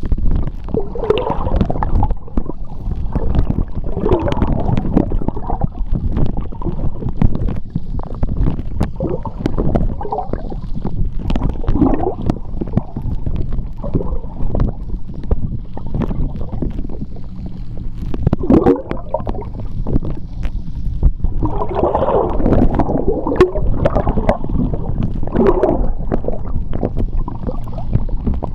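Underwater sound of moving seawater, heard through a submerged microphone: a steady low rumble with bubbles gurgling and frequent sharp clicks and ticks. The bubbling grows louder for a few seconds near the end.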